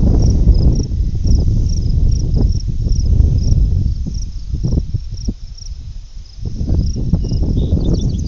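Crickets chirping steadily in a high pitch, about three chirps a second, under a loud, gusty low rumble of wind buffeting the microphone.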